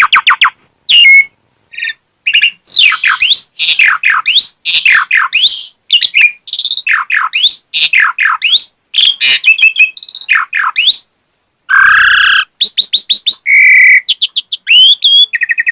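Asian pied starling (jalak suren) in full song, running through its repertoire: rapid whistled notes, sweeping rising and falling glides and quick chattering runs, with a harsher, hoarse note about twelve seconds in.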